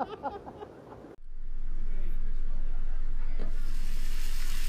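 Brief speech, then after an abrupt cut a steady low rumble with a faint hum, with a hiss swelling in near the end.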